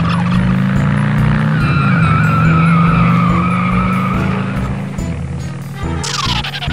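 Car sound effect: a steady engine drone with tyres squealing in a wavering high screech for a few seconds, over background music. Near the end comes a quick falling whistle.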